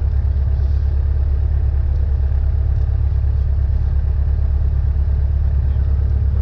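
Lycoming O-320 four-cylinder engine and propeller of a Cessna 172N running steadily, a constant deep drone with a strong low hum.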